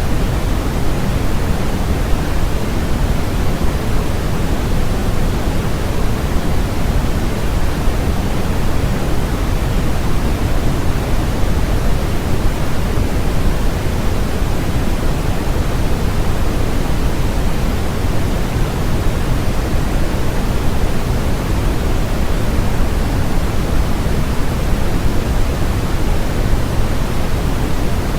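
Synthetic white-noise track: a steady, unchanging hiss, fuller in the low end than the high.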